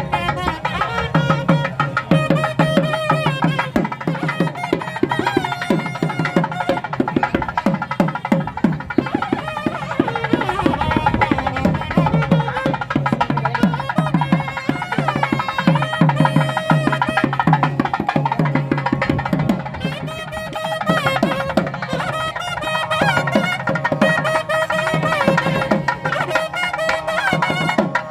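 Nadaswaram playing a continuous melody with gliding ornaments, over a drum accompaniment of rapid, dense strokes whose low notes bend in pitch. The whole is traditional South Indian temple-style music. It dips briefly about two-thirds of the way through.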